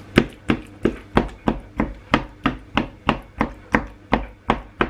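Steady knocking of a kitchen utensil on a cutting board, about three sharp strikes a second.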